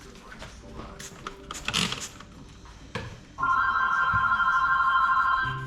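Telephone ringing: a steady electronic ring of a few stacked tones that sounds again about three and a half seconds in and lasts about two seconds. In the gap there is some clatter and a single knock.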